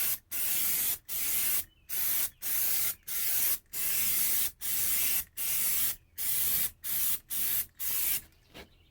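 An aerosol can of Rust-Oleum rubberized undercoating sprays onto a car's bare metal floor pan in about a dozen short hissing bursts in quick succession. The bursts stop shortly before the end.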